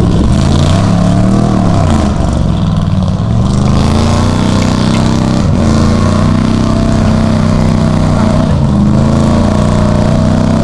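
Chevrolet pickup truck's engine revving hard while running a mud bog. It rises and falls in pitch twice, then is held high and fairly steady for the second half.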